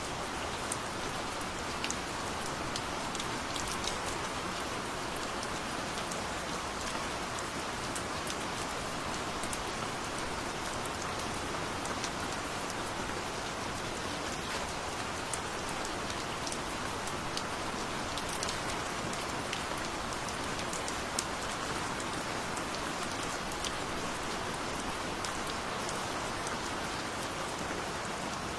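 Steady gentle rain falling, an even hiss dotted with small individual drop ticks.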